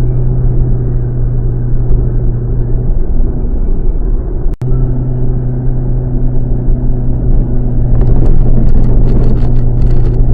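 Car fitted with an HKS Silent Hi-Power muffler driving at a steady engine speed: a constant, even exhaust drone. There is a momentary dropout a little under halfway, and a light crackly ticking joins in during the last couple of seconds.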